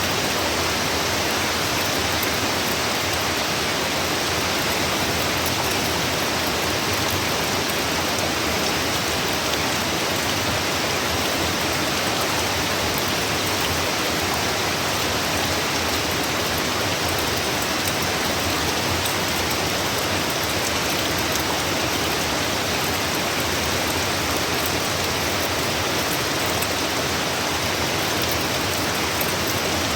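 Rain from a hurricane storm falling steadily, an even hiss that does not let up.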